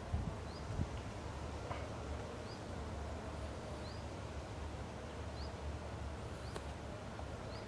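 Pond-side outdoor ambience: a steady low rumble with a small bird repeating a short rising chirp about every second or so, and two soft low thumps in the first second.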